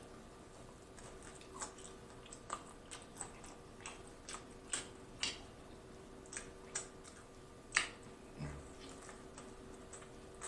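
Close-miked chewing of a mouthful of supreme pizza: soft, irregular mouth clicks and smacks, a few each second.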